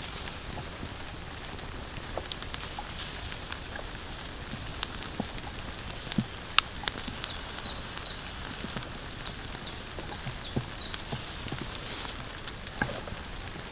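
Rain falling steadily, with scattered drops tapping sharply, likely on the tarp. For about five seconds in the middle, a bird calls a run of short, high, slightly falling chirps, roughly two or three a second.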